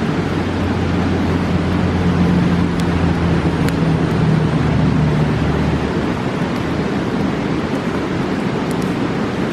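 Mountain river rushing steadily, with a few faint pops from a campfire. A low engine drone runs underneath and stops about six seconds in.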